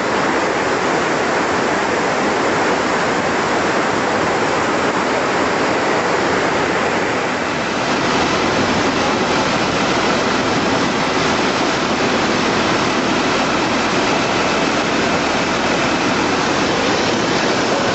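Steady, loud rushing of fast-flowing water.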